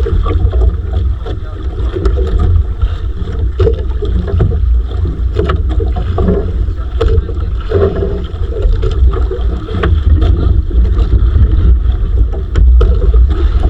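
Wind buffeting the microphone aboard a small fishing boat at sea: a constant low rumble with scattered light knocks.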